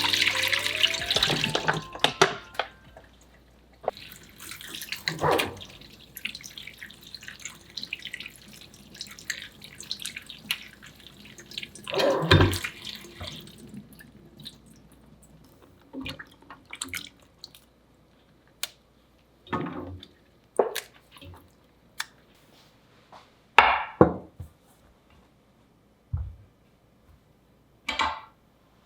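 Tap water running into a kitchen sink with washing sounds, which stops after about thirteen seconds; then scattered short knocks and clinks, a few seconds apart.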